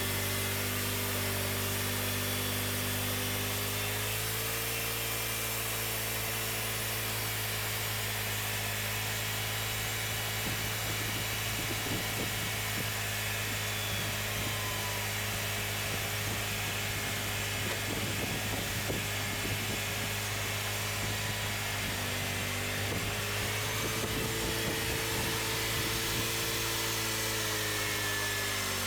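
Cooks 3238 hydraulic bandsaw mill running steadily as its blade saws through a cherry log, the engine note shifting in pitch a few times, around four seconds in and again near the end.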